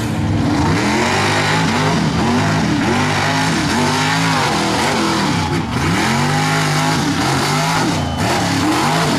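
Mega mud truck's engine revving hard, its pitch climbing and dropping over and over in quick surges.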